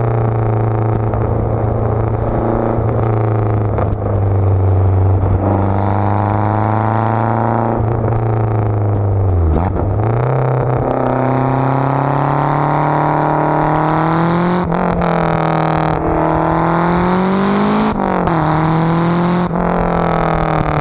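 Lancia Delta's four-cylinder engine being driven hard: the pitch climbs steadily and then drops back several times, as at gear changes, with a deep dip and recovery a little before halfway. A few sharp clicks cut through the engine note.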